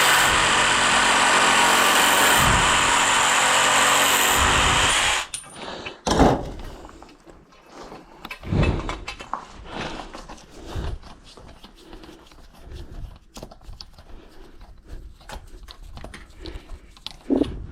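Handheld power tool running steadily on 1/2-inch EMT conduit for about five seconds, then stopping abruptly, followed by scattered knocks and clicks of the pipe being handled.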